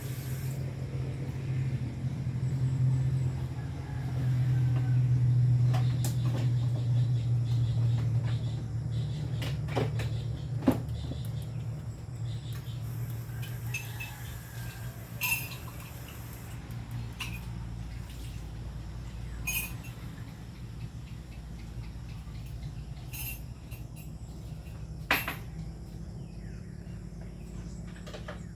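Heavy rain falling, with scattered drips and small knocks over a steady low rumble that is loudest in the first ten seconds and then eases.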